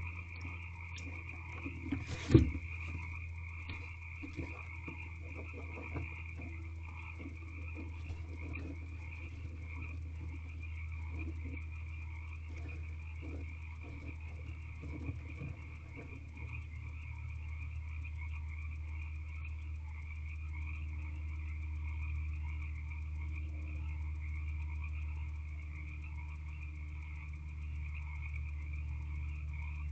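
A chorus of frogs calling, making a steady, wavering high trill, over a constant low electrical hum. There is one sharp knock a couple of seconds in, the loudest sound, and faint scratchy rustles during the first half.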